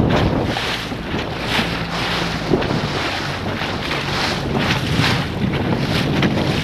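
Wind buffeting the microphone on the water, in irregular gusts, with waves splashing.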